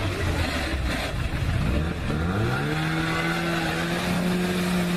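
Car engine running: its note sinks over the first second or two, then rises about two seconds in and holds steady, as the car slows and then accelerates away.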